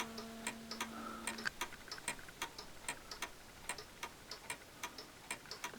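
Mechanical clock ticking faintly and evenly, with a steady low hum that stops about a second and a half in.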